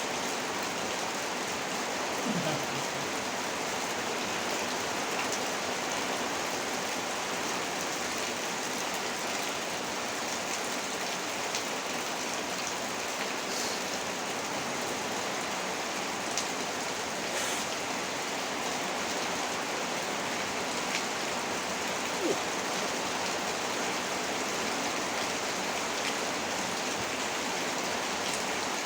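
Heavy rain falling steadily, a dense even hiss, with a few sharper drops or taps standing out now and then.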